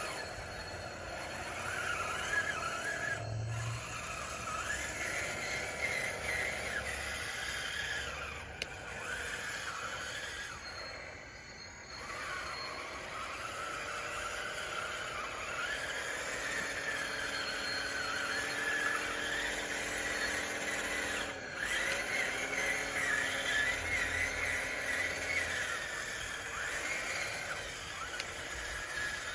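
DXR2 radio-controlled model bulldozer running and pushing dirt: its motors whine, the pitch wavering up and down as it drives and works the blade.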